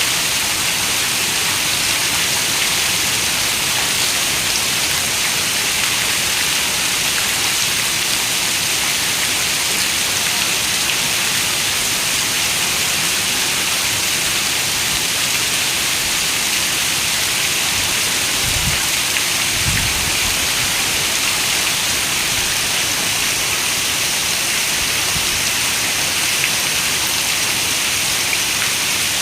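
Heavy rain falling steadily on a window, a dense even hiss, with a short low rumble about two-thirds of the way through.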